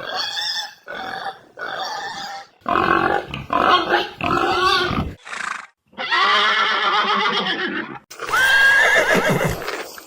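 A series of farm-animal calls: several short cries, then two longer drawn-out calls in the second half.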